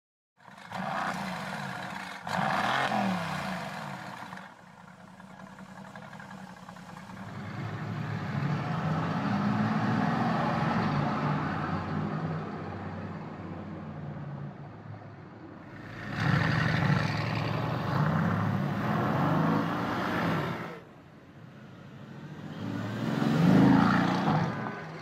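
Car engine revving through a loud performance exhaust in several separate bursts, each rising and falling in pitch, with the loudest rev near the end.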